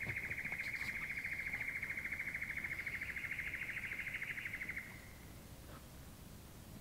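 A bird's long, rapid trill on one steady pitch, lasting about five seconds and stopping shortly before the end.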